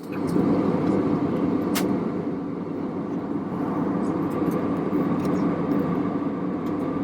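Steady running noise of a moving shuttle van, heard as a constant low rumble with a faint hum above it and a few small rattles.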